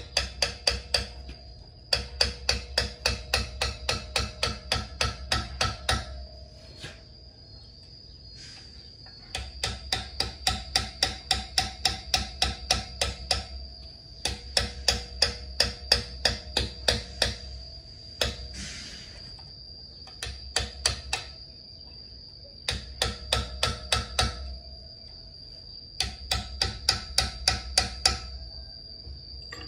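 Hammer striking a steel punch in quick runs of sharp metallic taps, about four a second, with the metal ringing, to turn out the injector nozzle cap on a Caterpillar 3406 cylinder head. The runs stop and start several times with short pauses between them.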